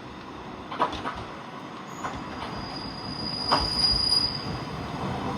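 Nishikigawa Railway diesel railcar running on the rails: wheels clacking over rail joints a few times, with a high, steady wheel squeal for a couple of seconds in the middle as the sound grows louder.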